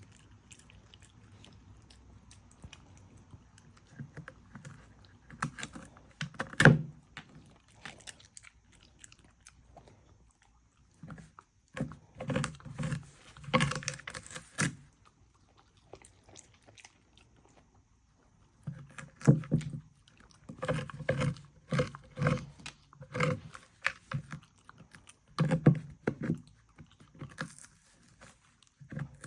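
A dog chewing and crunching food in several bouts of rapid bites, with short quiet pauses between them.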